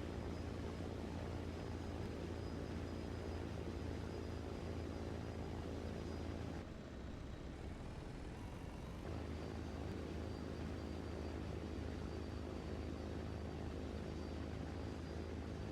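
A machine's steady, low droning hum with a faint high whine above it; it eases off slightly about seven seconds in and comes back about two seconds later.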